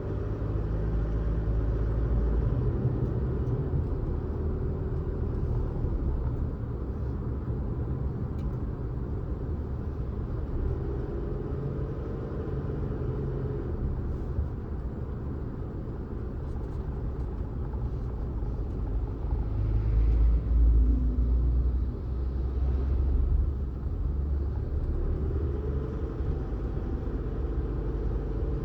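Car on the road: a steady low rumble of engine and tyres, with a faint tone that rises and falls a few times as the engine speed changes. It swells louder for a moment about twenty seconds in.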